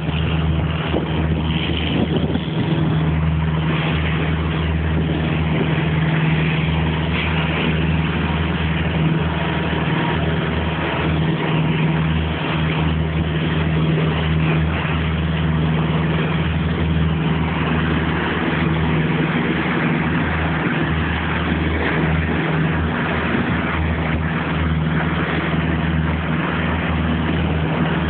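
Creel boat's engine running steadily with a low, even drone, under a constant rushing noise.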